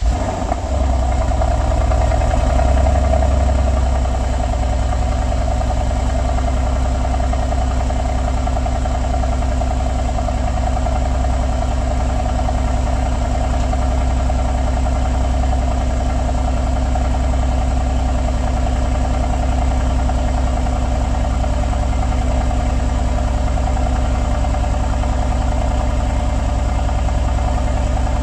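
Mercedes-AMG GLC 63 S's 4.0-litre twin-turbo V8 idling at the tailpipes right after a cold start. It is a little louder for the first few seconds, then settles into a steady idle.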